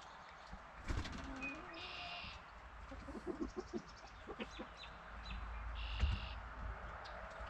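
Chickens making soft, scattered clucks and short low calls, with two brief high squeaky notes, one about two seconds in and one about six seconds in.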